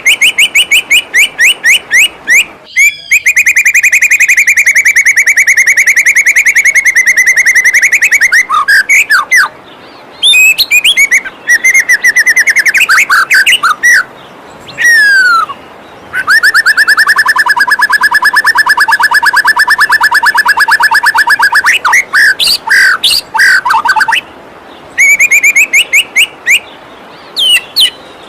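White-rumped shama song: fast series of repeated notes and two long, very rapid trills of several seconds each, over the steady rush of a waterfall.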